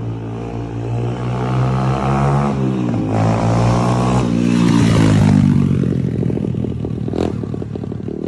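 150cc single-cylinder dirt bike engine revving as it is ridden, through a performance exhaust, its pitch climbing and dipping. It grows loudest about five seconds in, then falls in pitch and eases off. It pulls cleanly with no bog on its freshly tuned 24mm Nibbi racing carburetor.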